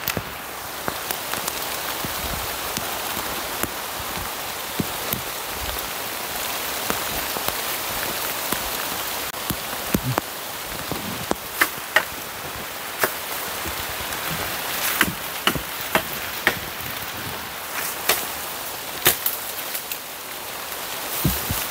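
Steady heavy rain, with irregular sharp taps scattered through it, most of them in the second half.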